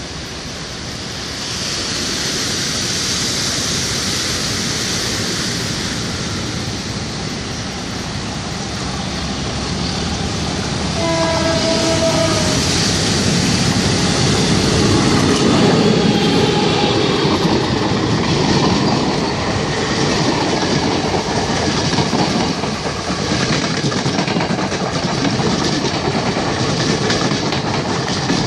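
Passenger train approaching and passing close by, its engine and wheel rumble growing steadily louder. The horn gives one short blast about eleven seconds in, and near the end the carriages rush past.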